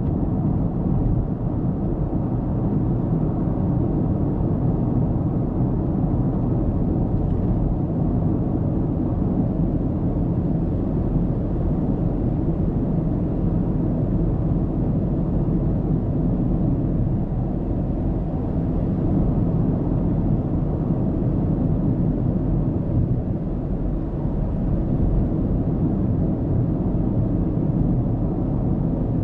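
Steady low rumble of a car driving at road speed, with tyre and road noise heard from inside the car's cabin.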